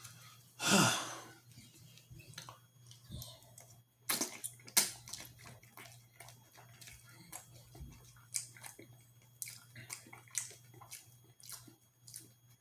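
Close-miked eating sounds: irregular wet chewing and mouth clicks, with a louder noisy burst about a second in, over a steady low electrical hum.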